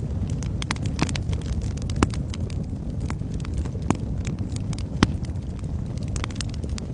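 Wood fire burning in a fireplace: a steady low roar of flames with frequent sharp crackles and pops, three louder pops standing out about two, four and five seconds in.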